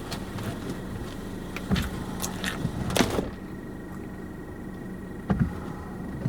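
Inside a vehicle: the steady hum of the car with irregular sharp taps and knocks, the loudest about three seconds in, after which the high hiss drops away.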